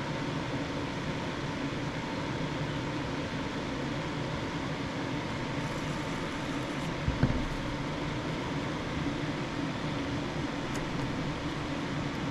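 Steady whir of a running fan with a faint constant hum, broken once by a soft low thump about seven seconds in.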